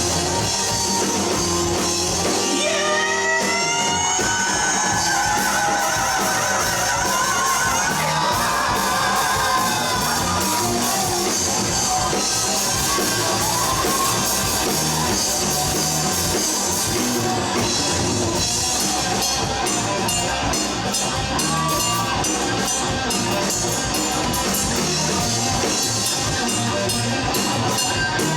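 Live rock band of electric guitars, bass guitar and drum kit playing loudly without a break, with a high pitched line sweeping upward about three seconds in.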